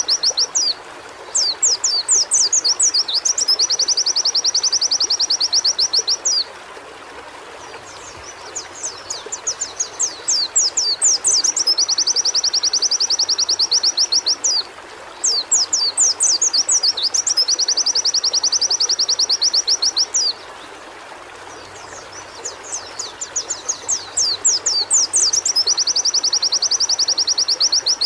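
White-eye (pleci) singing: bursts of high sweeping notes that run into long, very fast trills, repeated phrase after phrase with short pauses, over a steady background hiss.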